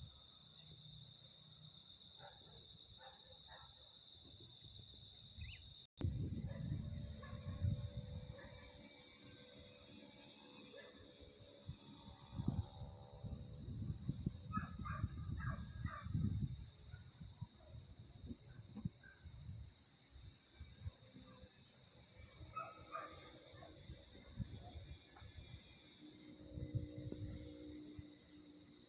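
Steady high-pitched chorus of crickets or similar singing insects, an unbroken drone. It cuts out for an instant about six seconds in and comes back a little louder.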